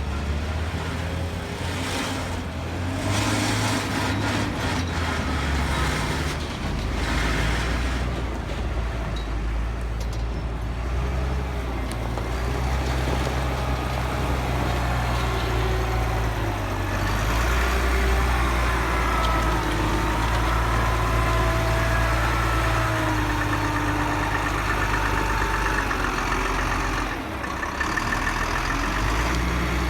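A heavy truck engine running steadily, its low note shifting up and down several times.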